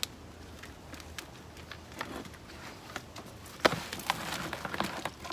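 Hands digging through potting soil in a garden container while harvesting potatoes: scattered scrapes and small knocks, becoming a busier rustling scrabble just past the middle.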